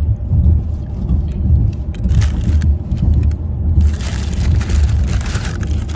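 Crunchy chewing of a hard macadamia nut cookie, loudest from about four to five and a half seconds in, over the low rumble of a car on the road.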